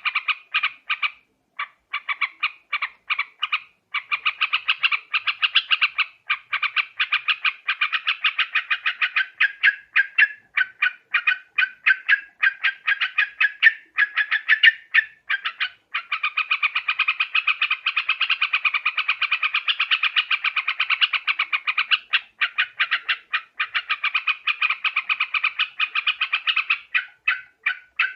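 Yellow-vented bulbul (trucuk) calling: long runs of rapid, chattering notes, broken by short pauses about a second and a half, four seconds and sixteen seconds in. This is the call used as a lure to draw the birds in for trapping.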